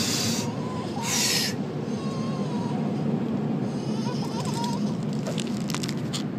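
Car wash air dryers blowing on the car with a steady rush and a couple of loud hissing blasts in the first second and a half, while a dog whines in short, thin, wavering whimpers three or four times.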